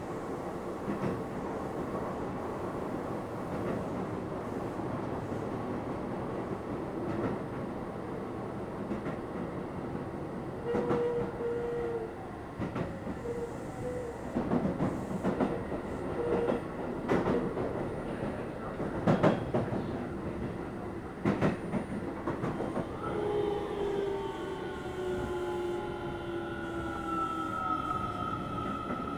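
Keio 7000 series electric train heard from inside the car: steady running noise, then a middle stretch of sharp clacks and knocks from the wheels over rail joints or points. Near the end a motor whine of several tones falls steadily in pitch as the train slows.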